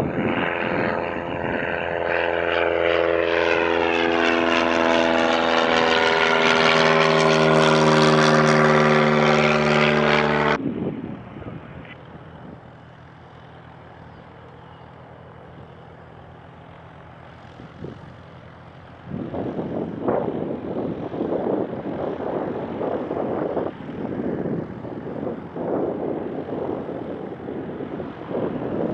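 Propeller airplane passing close, its engine and propeller drone shifting in pitch as it goes by, cut off abruptly about a third of the way in. After a quieter stretch, wind gusts buffet the microphone from about two-thirds in.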